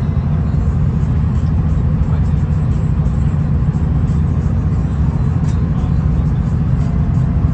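V/Line VLocity diesel railcar under way, heard from on board: a steady low rumble of engine and wheels on the track, with faint light ticks over it.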